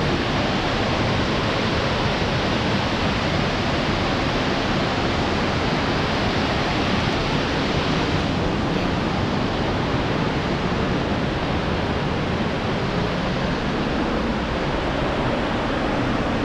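Shifen Waterfall's falling water: a loud, steady rush that does not change.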